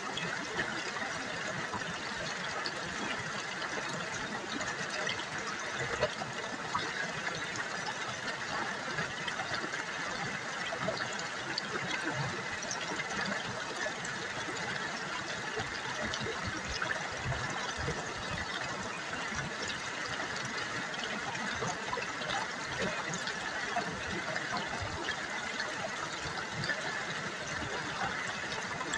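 River water babbling steadily, an even rush flecked with small splashes.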